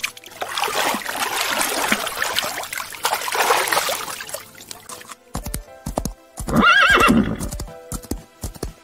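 A horse whinnies once, a call that falls in pitch, amid hoofbeats, after a few seconds of rushing noise. Background music plays underneath.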